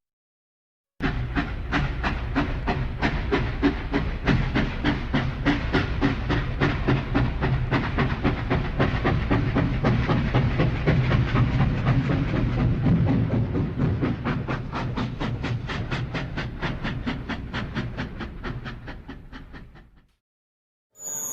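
Train wheels passing over rail joints: a rapid, regular clickety-clack over a low rumble that starts abruptly about a second in, grows gradually quieter in the second half, and stops near the end.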